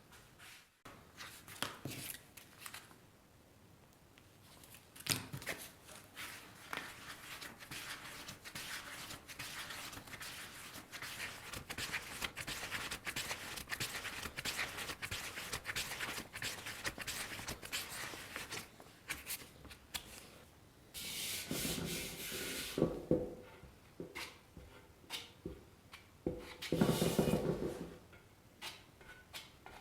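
Hand work on a surface: rubbing and scraping strokes with many small clicks, then two louder bouts of handling near the end.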